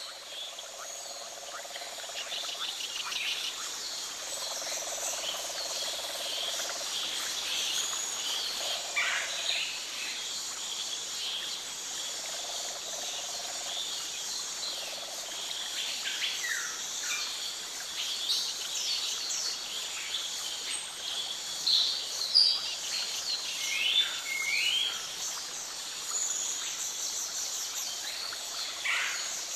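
Tropical rainforest ambience: a steady high chorus of insects, with bird chirps and calls scattered through it. Short low calls come now and then.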